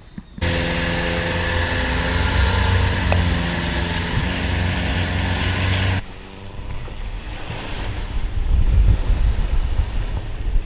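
Boat engine running steadily with water and wind noise on the microphone. It starts abruptly about half a second in and cuts off sharply about six seconds in, leaving a quieter rumble with wind buffeting.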